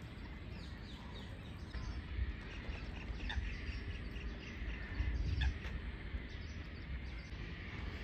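Wild wetland birds calling, a rapid run of short, repeated high chirping notes, over a low rumble that is loudest about five seconds in.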